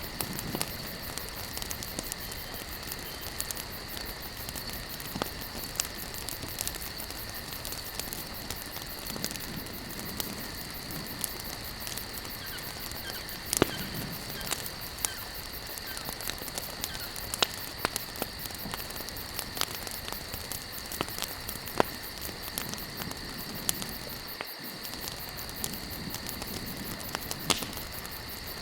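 Wood campfire burning and crackling, with frequent small pops and a few louder snaps, over a soft steady hiss and a steady high-pitched drone.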